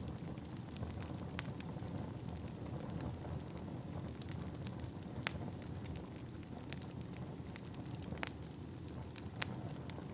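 Wood fire burning in a fireplace: a steady low rumble of the flames with irregular sharp crackles and pops from the burning logs, a few louder ones scattered through.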